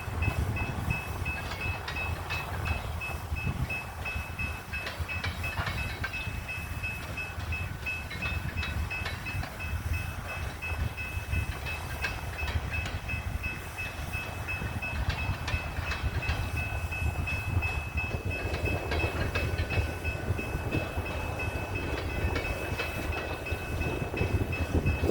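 Coal train freight cars rolling past on steel rails: a steady low rumble with wheels clicking over rail joints, and a thin, steady high-pitched squeal above it.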